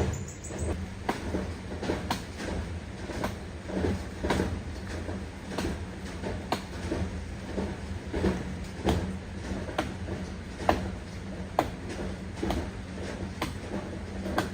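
Irregular sharp knocks and cracks, about one or two a second, over a steady low hum.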